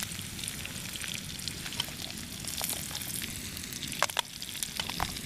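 A thick dogfish fillet and boiled potato chunks frying in butter and garlic in a pan on a camping gas stove, giving a steady sizzle. A few sharp clicks come near the end.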